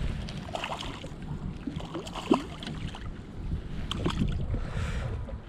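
Wind and choppy water around a small fishing boat, a steady low rumble with a few small knocks and clicks.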